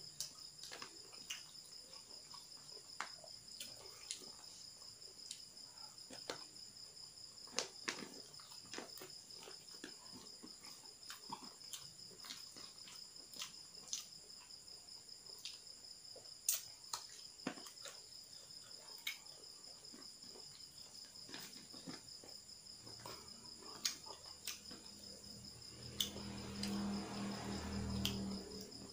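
Crickets trill steadily in the background. Close, irregular clicks and smacks of chewing run through it. Near the end a low hum rises for a couple of seconds.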